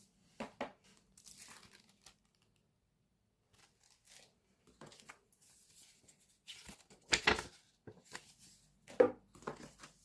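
Packaging being handled and opened: irregular crinkling and tearing rustles, with the loudest ones a little past the middle and near the end.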